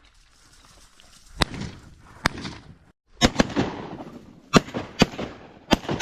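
A rapid, irregular volley of about eight shotgun shots from several hunters firing at incoming ducks over about four seconds, each a sharp report with a short echoing tail.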